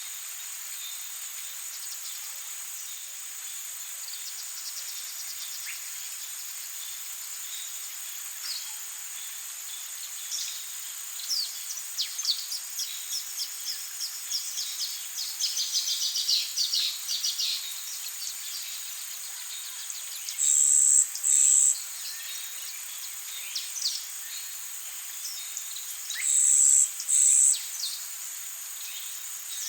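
Tropical rainforest ambience: a steady high-pitched drone of insects, with birds calling over it. A flurry of quick descending call notes comes about a third of the way in, and two pairs of loud, short, very high calls stand out later on.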